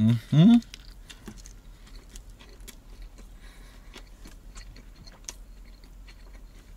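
A man hums a short rising 'mm-mm' through a mouthful of cheeseburger, then chews, with soft wet clicks of chewing and faint small rustles.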